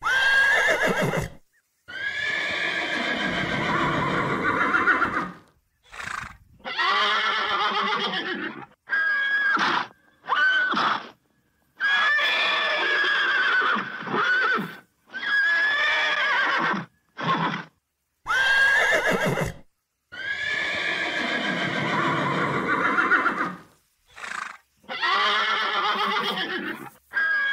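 Horses neighing and whinnying, a dozen or so separate calls one after another, each broken off by a short silent gap.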